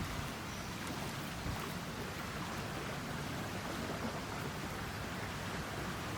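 Steady outdoor ambience by a river bank: an even wash of water and air noise, with no engine or voice.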